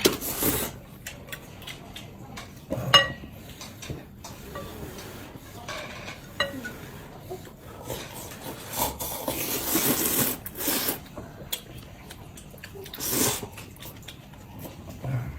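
Eating at a table: utensils and dishes clinking, with one sharp ringing clink about three seconds in and a run of louder noisy sounds in the second half.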